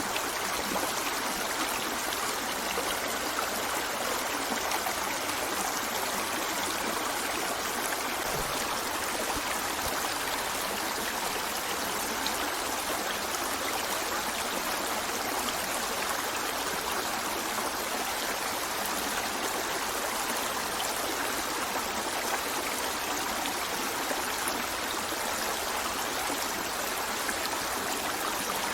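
River water flowing over rocks, a steady rushing with trickling, even throughout.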